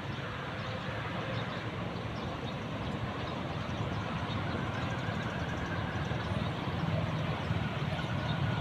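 Diesel passenger train approaching from a distance: a low, steady rumble that grows slowly louder.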